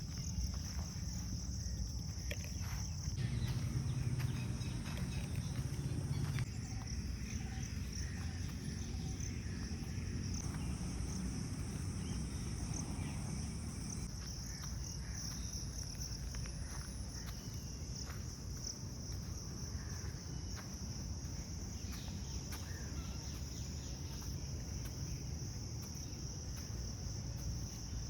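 Steady, unbroken high-pitched chorus of insects, typical of crickets, with a low rumble underneath that is strongest a few seconds in.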